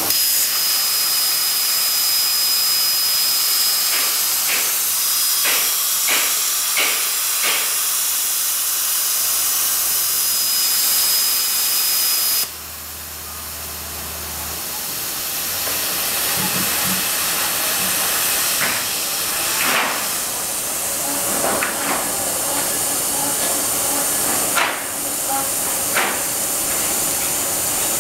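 CNC plasma cutting torch hissing steadily with a thin high whine. The hiss and whine cut off abruptly about twelve seconds in, then a softer hiss builds back up. Scattered sharp clicks run through it.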